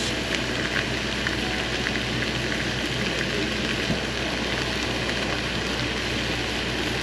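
Egg whites and turkey frying in a pan, a steady sizzle with small crackles.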